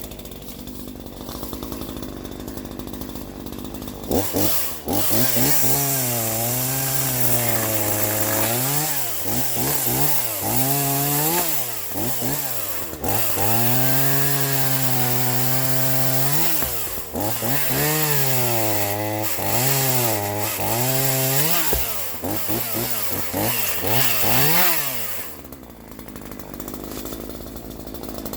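Troy-Bilt TB4218 42cc two-stroke chainsaw idling, then revved to full throttle again and again for about twenty seconds while cutting laurel wood, its pitch dipping each time the throttle is let off. It drops back to idle near the end.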